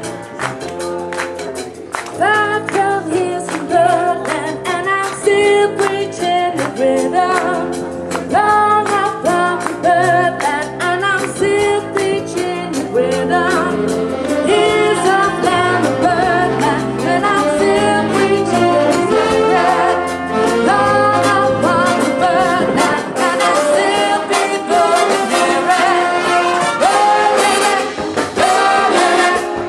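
Big band playing live: a brass section sounding held chords and phrases over a steady drum beat, the full band coming in about two seconds in.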